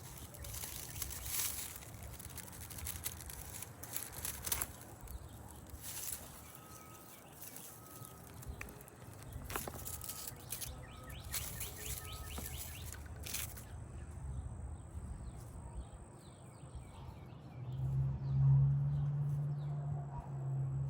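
Dry plant stalks and soil rustling and crackling as garden plants are pulled up by hand, with faint bird chirps in the background. A low steady hum comes in near the end.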